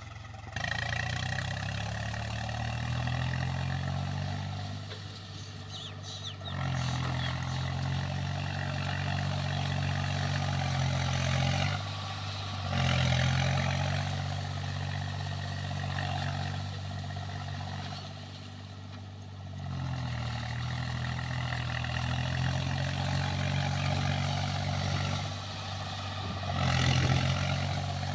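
Swaraj 735 FE tractor's three-cylinder diesel engine working under load while puddling a flooded paddy field. Its note eases off and picks back up every several seconds.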